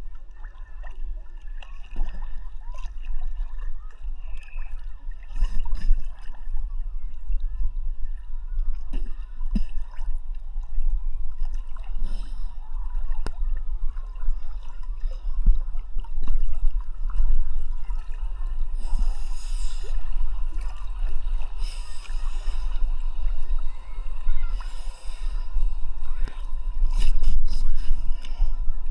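Sea water sloshing and gurgling around a camera held at the surface while swimming, with a steady low rumble and short splashes, several of them near the end.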